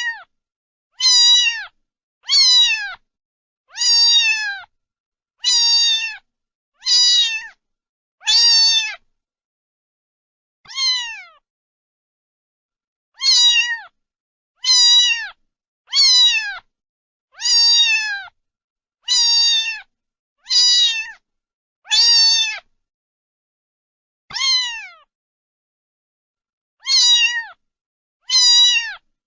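Domestic cat meowing over and over: about seventeen short, high meows, each dropping in pitch at its end, with silent gaps between them and a couple of longer pauses.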